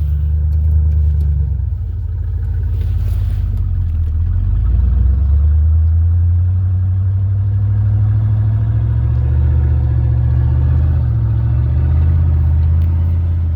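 1988 Ford F-150's engine running cold at 14 °F. Its note changes and dips about two seconds in, then builds to a steady, heavier running as the truck is worked into reverse in deep snow.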